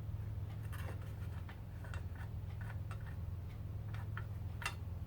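Scattered light clicks and taps of garbage disposal parts being handled during a teardown, with a sharper click near the end, over a steady low hum.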